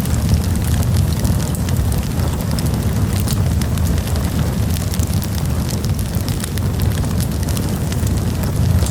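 Wood campfire burning with a steady low rumble and frequent quick crackles and pops.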